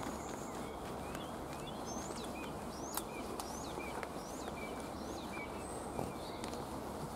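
Small birds chirping, a quick series of short repeated calls, over a steady hiss of outdoor background noise.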